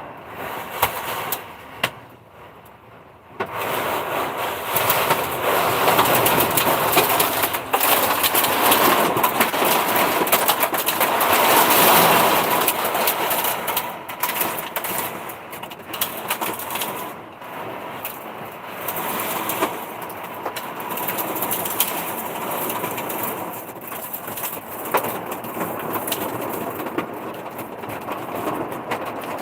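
Heavy rain pouring down in a storm, a dense even hiss scattered with many sharp ticks of drops or hail striking. It surges a few seconds in, is heaviest around the middle, then eases to a steadier downpour.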